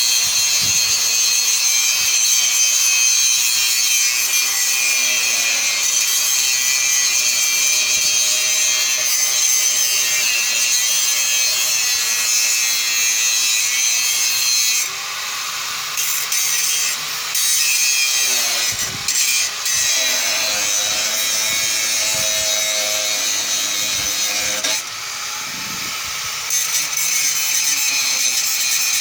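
A power tool grinding or cutting, a loud steady abrasive hiss that eases off briefly twice, about halfway through and again a few seconds later.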